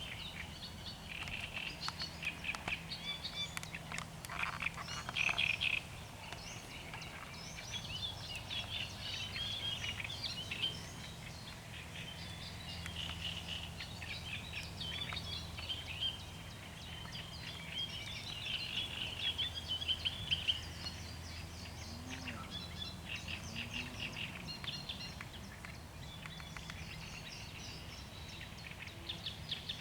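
Songbird of a species the recordist could not identify, singing in long runs of quick, chattering, high notes that repeat with short pauses.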